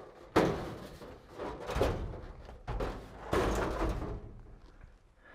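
Knocks and scraping as loose parts are handled and shifted inside a light aircraft's cabin. A sharp knock comes about a third of a second in, then scraping and rustling, with another knock and a longer scrape near the middle.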